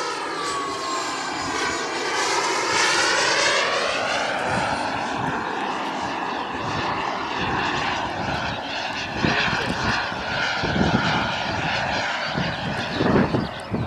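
Frank model jet turbine in a 2 m RC F-86 Sabre whining as the jet flies past, its pitch gliding down then back up in the first few seconds before settling to a steadier rush. A few short thumps land in the later seconds.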